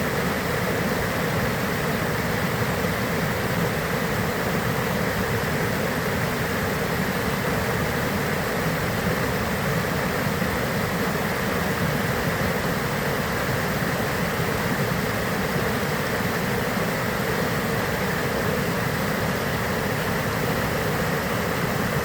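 Waterfall rushing steadily, an even wash of falling water with no breaks or changes.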